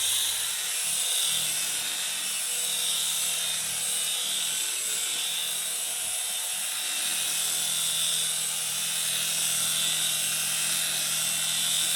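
Small electric motors and rotors of a 2-channel toy RC helicopter whirring steadily in flight, a high-pitched whine that rises and falls slightly.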